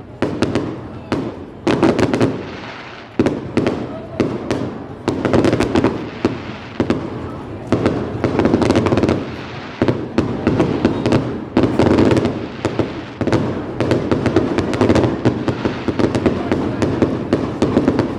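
Fireworks going off in a dense, continuous rattle of bangs and crackles, many a second, with louder bangs standing out every second or so.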